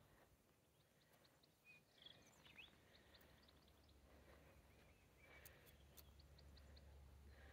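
Near silence with faint distant birdsong: series of short high chirps, with a few brief whistled notes about two seconds in. A faint low rumble comes in from about five seconds in.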